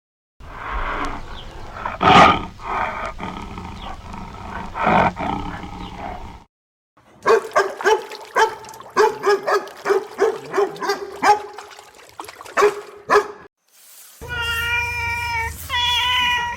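Animal calls from three clips cut one after another: a noisy stretch with two loud calls about two and five seconds in, then a run of short, rapid calls, then a cat meowing near the end.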